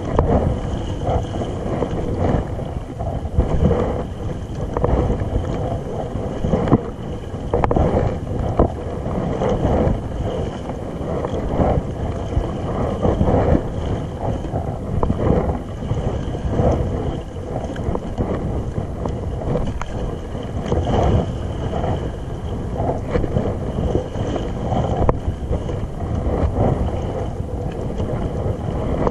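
Wind buffeting the microphone over water lapping against a kayak at sea, in uneven gusts and swells.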